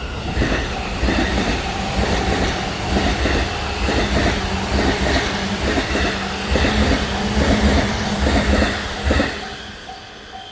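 Train running through a level crossing, its wheels clacking over the rail joints in a rapid, uneven rhythm, then fading away about nine seconds in. As it clears, the level-crossing bell's evenly repeated ringing comes through again near the end.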